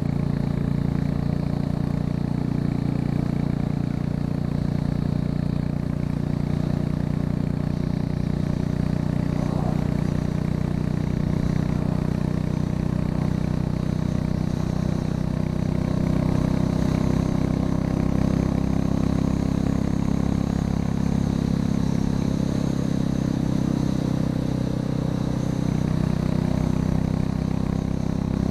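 Royal Enfield Classic 350's single-cylinder engine running steadily with its end muffler removed, exhausting through the catalytic converters alone.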